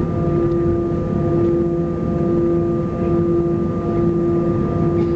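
Steady hum inside an Airbus A320's cabin: engine and air-system noise with several steady whining tones over a low rumble, holding level without any rise in power.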